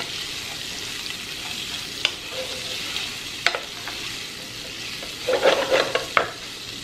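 Diced guanciale and red onion sizzling as they fry and brown in a sauté pan, stirred with a wooden spoon. The spoon knocks against the pan a couple of times, then clatters in a quick cluster about five to six seconds in.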